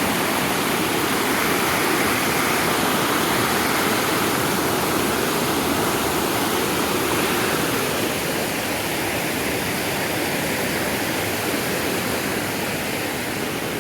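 Creek water rushing over rapids: a steady, even rush that eases slightly about halfway through.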